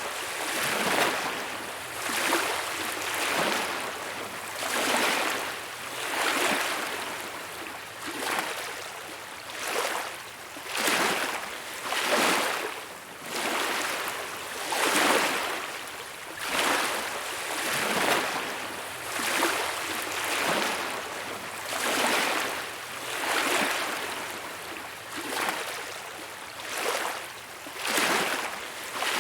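Small waves washing onto a beach, a swell of surf coming in and falling away roughly every one and a half seconds.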